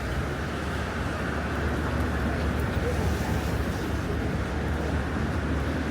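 Steady rainy city-street ambience: a continuous hiss over a low rumble.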